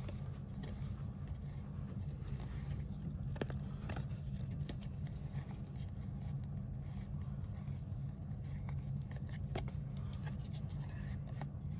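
Foil trading-card packs being torn open by hand and baseball cards handled: scattered light crackles, clicks and scrapes over a steady low hum.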